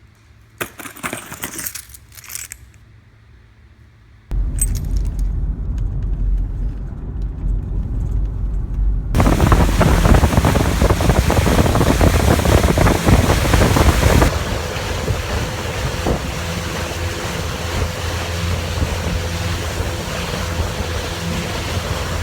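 A brief metallic jingle and rattle, then, after abrupt cuts, the steady loud rumble of a vehicle driving, changing twice in character.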